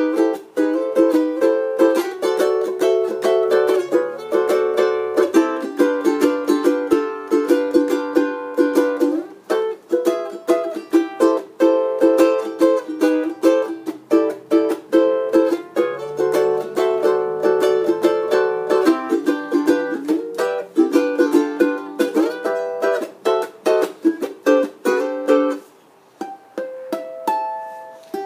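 Kanilea K1 satin-finish koa tenor ukulele strummed in quick rhythmic chords, slowing to a few single picked notes near the end.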